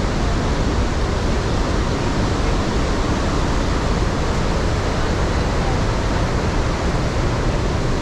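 Iguaçu Falls' water pouring down, a loud steady rush with no breaks.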